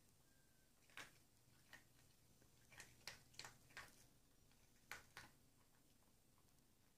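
A dog eating from bowls of dry dog food: near silence broken by about eight faint, short clicks and crunches between about one and five seconds in.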